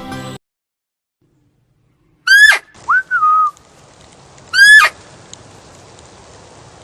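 An animal's shrill whistled call, heard twice from about two seconds in. Each call is a short note that rises briefly, then falls steeply. Between them, about three seconds in, there are softer calls that rise and then hold level.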